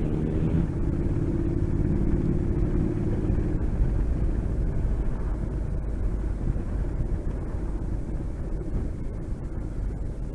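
Motorcycle engine running while being ridden, under a steady low rumble of wind and road noise; a steady engine note stands out for the first few seconds, then sinks into the rumble.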